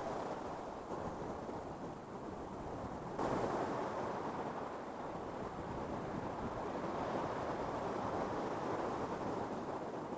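Ocean surf on a sandy beach: a steady wash of waves, with a wave breaking suddenly about three seconds in, louder and brighter, then rolling on.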